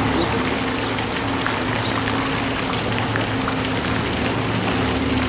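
Heavy storm rain falling steadily in a dense hiss with scattered drop ticks, over a low steady hum.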